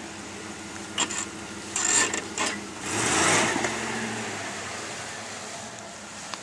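Jeep Grand Cherokee's engine running at low speed as the SUV drives across grass, with a few short clicks and a louder rush of noise about three seconds in.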